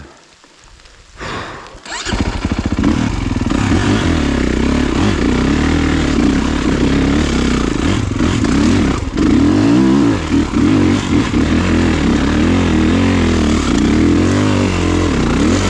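Kawasaki KX450 four-stroke single-cylinder dirt-bike engine revving hard under load on a hill climb. It comes in about two seconds in, its pitch rising and falling as the throttle is worked, with a brief drop about halfway through.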